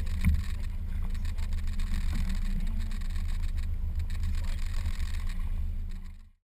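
Fishing boat's motor running steadily, a low rumble with water and hull noise, fading out suddenly near the end.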